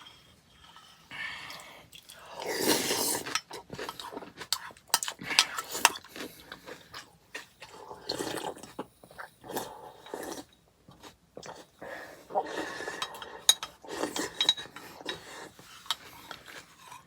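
Close-miked eating of granola in hot liquid: a spoon clinking against the bowl again and again, with a few longer slurps and some chewing between the clinks.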